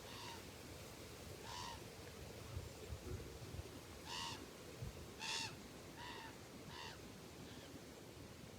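A bird calling: about seven short, harsh calls, spaced irregularly, the loudest two a little past the middle.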